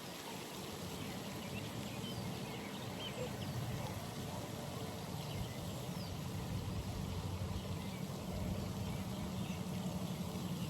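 Outdoor pond ambience: steady running or trickling water under a constant low rumble, with a few faint bird chirps and calls scattered through.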